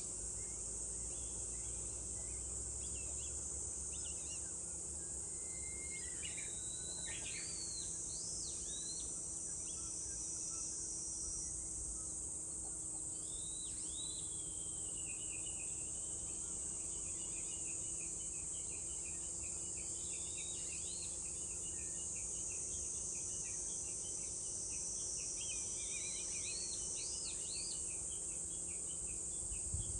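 A steady, high-pitched chorus of cicadas with small birds calling over it: a few rising chirps about seven seconds in, then a long run of quick, repeated twittering notes through the second half.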